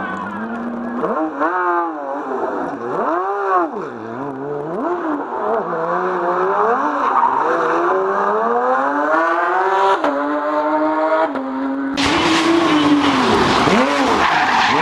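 Rally car engine revving hard, its pitch swooping up and down repeatedly with lifts and bursts of throttle, then climbing steadily through a long pull. About twelve seconds in it switches abruptly to a louder, harsher engine sound.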